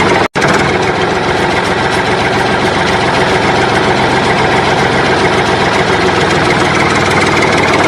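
Engine running steadily at idle, unbroken except for a split-second dropout a moment in.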